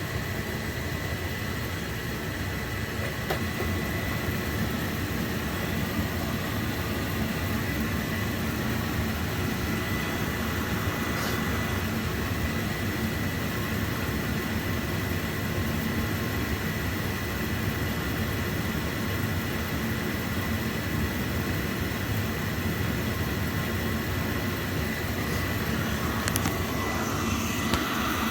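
Oil boiler's burner firing steadily, a constant blower-and-flame noise with a thin steady high whine over it. The burner is running during a combustion tune-up with CO too high, while its air is being turned up.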